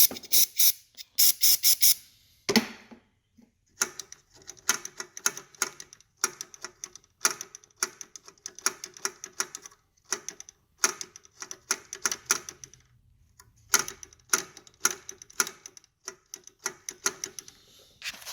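Air vane and auto-choke linkage on a Briggs & Stratton 190cc mower engine being worked back and forth by hand, giving runs of light, quick clicks and rattles. They are freeing the freshly sprayed choke parts, which dirt can keep from opening and closing properly. A few short, louder bursts of noise come near the start.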